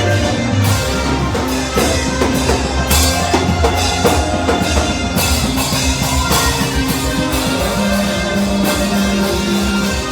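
Live worship band music, with a drum kit keeping a steady beat under held bass and keyboard-like chords.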